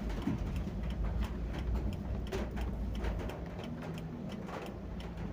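Rain falling, heard as irregular drops ticking sharply on a hard surface over a low rumble. A faint low hum comes in about three seconds in and fades about a second and a half later.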